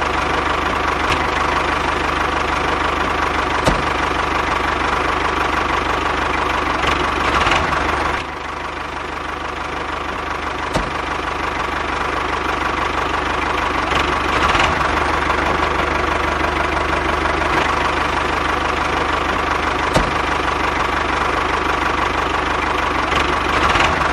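Diesel tractor engine idling steadily. About eight seconds in it drops in level, then builds back up over a few seconds.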